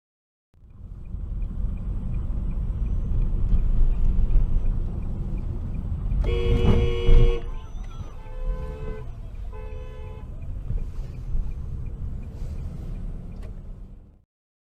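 Car horn honking: one long blast about six seconds in, then two shorter honks, over steady low road noise from a moving car.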